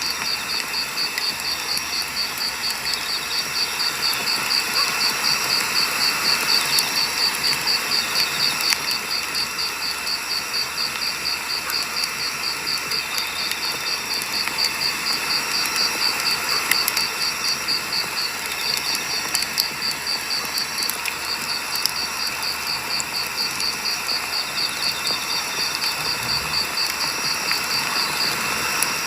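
Wood fire burning, with scattered sharp crackles and pops from the burning firewood, over the steady, rapid chirping of crickets.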